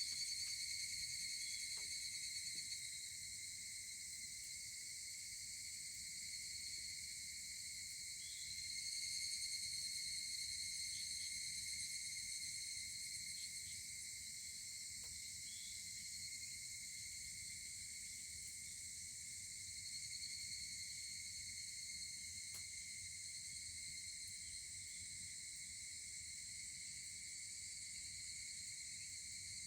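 Steady chorus of crickets and other insects chirring at several fixed high pitches, with a brief swell about a third of the way in and a few faint clicks.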